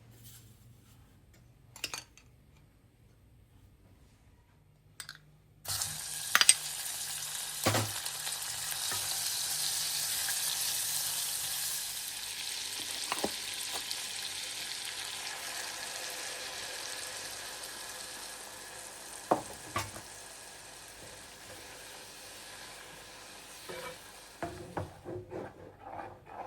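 Food sizzling in hot oil in a pan. The sizzle starts suddenly about six seconds in and slowly dies down, with a few sharp knocks on top and some clattering near the end.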